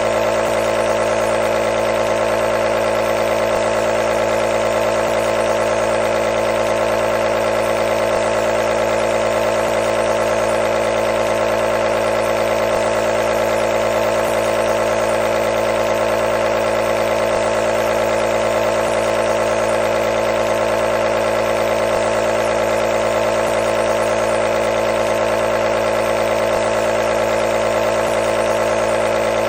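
Nebulizer's compressor running steadily: a constant motor hum with a strong mid-pitched buzz that does not change.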